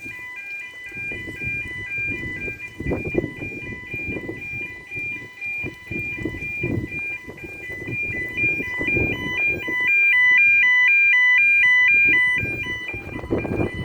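Level crossing warning alarm: an electronic two-tone yodel alternating quickly between two pitches. It gets much louder for about two and a half seconds from about ten seconds in. Intermittent low rumbling noise runs underneath.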